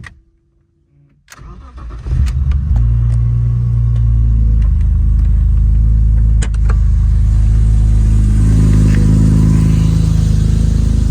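1987 BMW 528i's straight-six cold-starting after sitting about a week: a second or so of starter cranking, then the engine catches and settles into a steady fast idle.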